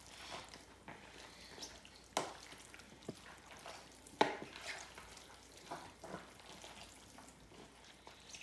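Faint wet squelching of raw chicken being massaged by gloved hands in marinade sauce, with a few sharp clicks, the loudest about two and four seconds in.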